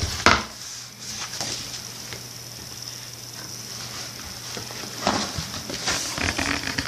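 Rustling and light knocks of a picture book being handled and its pages turned. The handling comes in short bursts near the start and again in the last two seconds, over a faint steady hum.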